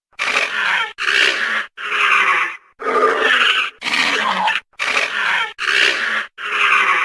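Dinosaur sound effect: a run of eight short, rough growling calls in quick succession, each under a second long, with brief silences between them.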